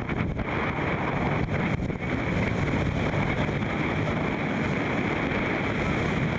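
Steady roar of rushing water from the Iguazú waterfalls, with wind buffeting the microphone.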